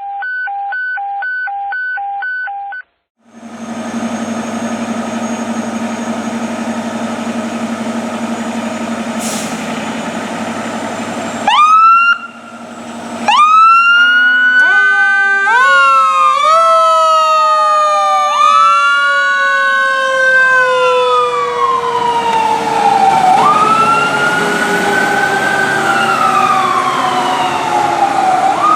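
A pulsed beeping tone first, then the 2015 Sutphen fire engine's diesel running steadily. About eleven seconds in, its sirens start: sweeps that wind up sharply and then slowly fall in pitch, several tones overlapping. This is a mechanical Q siren wailing along with an electronic wail as the engine responds to a call.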